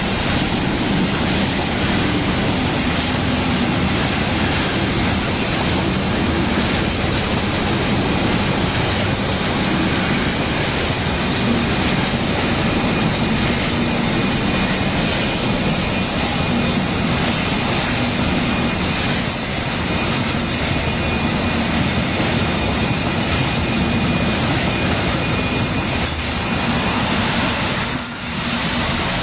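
Freight train of intermodal container wagons rolling past at close range: a loud, steady rush and rumble of wheels on rail, with faint high steady tones from the wheels on top.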